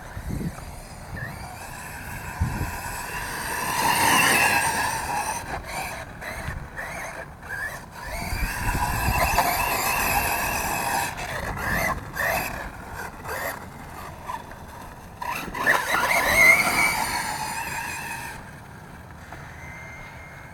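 Electric motor of a 1/8-scale RC truck, run on a Castle Mamba X ESC, whining as it accelerates and slows in three runs, the pitch rising and falling with each.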